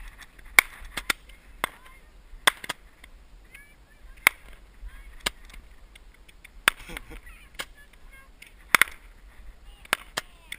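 Roman candles firing: a string of irregular sharp pops, about a dozen, some much louder than others.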